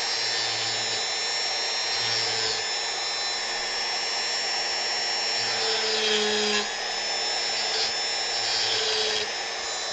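Dremel rotary tool running steadily as it carves wood, a high-pitched whine whose pitch dips briefly a few times as the bit takes load.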